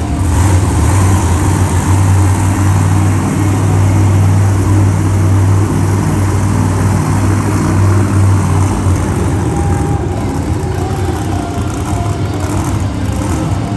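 Monster truck engine running loud and steady at close range, with a heavy low drone.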